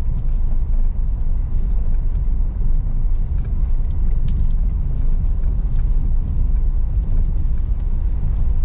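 Car driving over an unpaved, sandy and rocky track: a steady low rumble of engine and tyres, with scattered light ticks and knocks.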